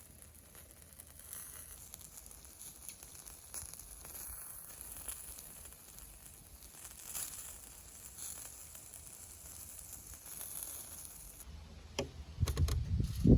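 Food sizzling over a charcoal fire, a steady high hiss with fine crackles. Near the end come a few louder low knocks and bumps.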